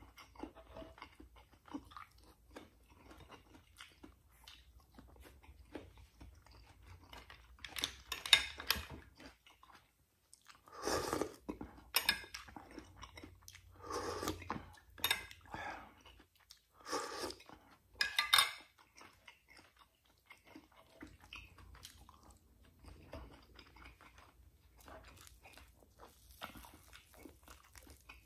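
Close-up chewing and mouth sounds of someone eating rice and fried milkfish by hand. Between about 8 and 19 s a run of five or six louder bursts includes sipping garlic butter sauce from a spoon.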